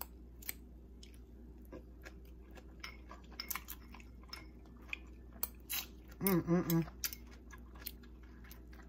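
A person chewing a mouthful of crunchy raw cabbage slaw with candied pecans: many short, crisp crunches. About six seconds in, a short hummed "mm" of the voice.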